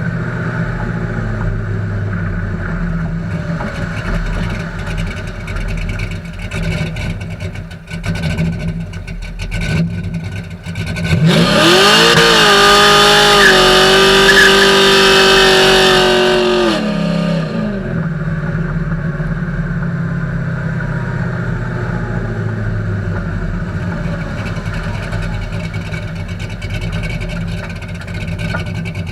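2000 Camaro SS's LS1 V8 running through true dual exhaust with Flowmaster single-chamber mufflers. It idles, is revved up sharply about a third of the way in, held high for about five seconds as the loudest part, then falls back to idle.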